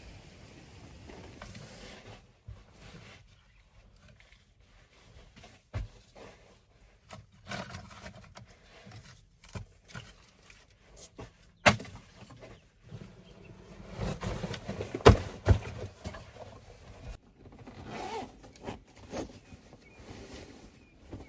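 Irregular knocks, clatters and rustling, with one sharp knock about twelve seconds in and a louder run of knocks around fifteen seconds in.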